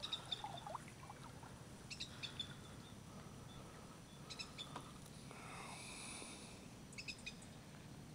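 Faint bird chirps in short clusters every couple of seconds, over a quiet low hum.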